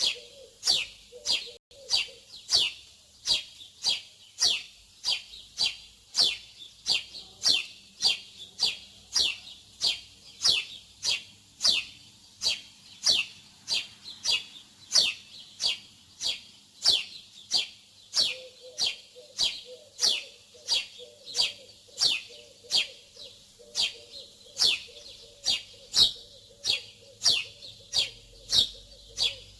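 Small songbird chirping over and over, about two short, sharp downward-sweeping chirps a second, steady and evenly spaced.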